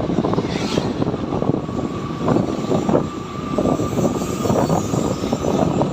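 Motorcycle running along a road, its engine drone mixed with wind buffeting the camera microphone.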